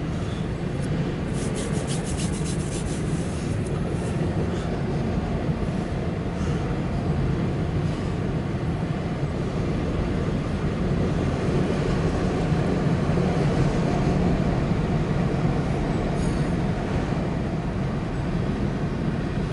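Empty autorack freight cars rolling past, a steady rumble of steel wheels on the rails, heard through the glass of a parked vehicle. A run of faint, quick clicks comes between about one and four seconds in.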